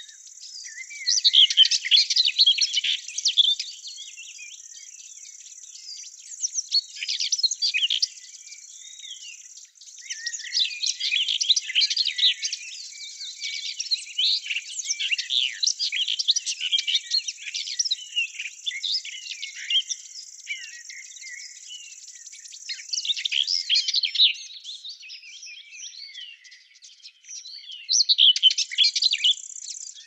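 Birds singing in rapid, high twittering phrases, several outbursts with short lulls between them, over a steady high hiss.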